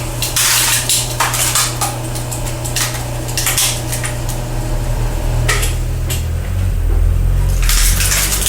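Belt-driven screw log splitter with a single-phase 3 hp electric motor running steadily while its threaded cone splits wood, with repeated sharp cracks and clattering knocks of the logs breaking apart.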